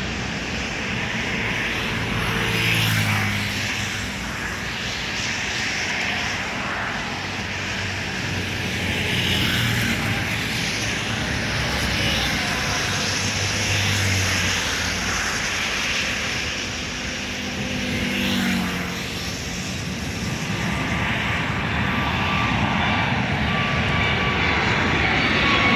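Embraer E195-E2's Pratt & Whitney PW1900G geared turbofan engines running at takeoff power, a steady loud jet rush that grows louder near the end, with a whine that drops in pitch as the jet goes past.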